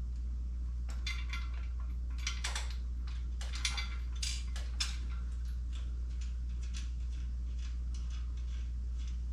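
Light metallic clicks and clinks of bolts, washers and hand tools being handled, scattered over the first five seconds and sparser after, over a steady low hum.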